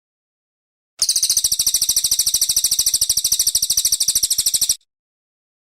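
Brown cililin bird singing one loud, rapid, even trill of high notes lasting nearly four seconds, starting and stopping abruptly.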